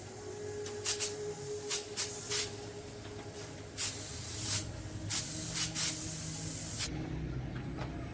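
Spray hissing in about a dozen short, sharp spurts over a steady hiss, which cuts off near the end.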